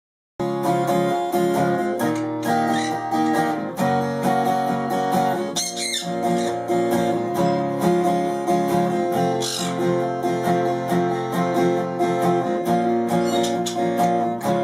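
Acoustic guitar music, strummed chords and plucked notes at a steady beat, starting after a brief moment of silence.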